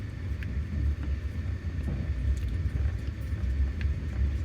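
Low, steady rumble of a moving passenger train heard from inside the carriage, with a few faint ticks.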